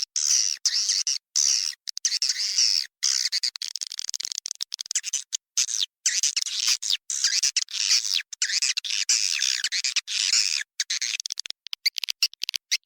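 Recorded chorus of edible-nest swiftlets twittering and chirping, a lure call played from swiftlet houses to draw the birds in and get them to roost. Near the end it turns to rapid short chirps, several a second.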